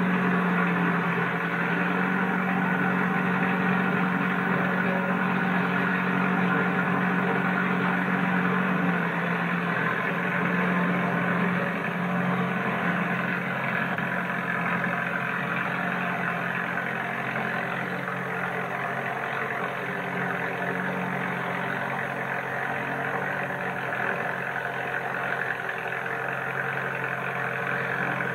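An engine running steadily at an even speed, easing a little in loudness after about ten seconds.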